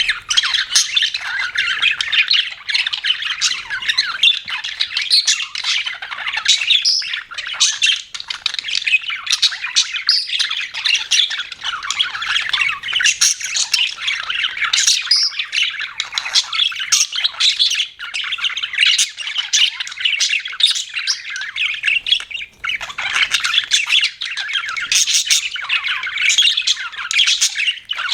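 Budgerigars (budgies) chattering without a break: a dense, overlapping mix of warbling chirps and squawks.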